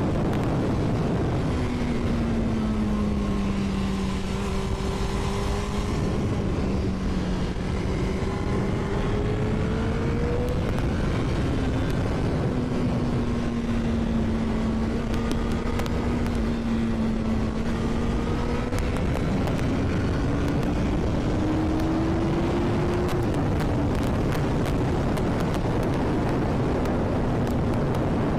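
Honda CBR1000RR's inline-four engine pulling under way, its pitch climbing and then falling back sharply a couple of times, over a heavy wind rush.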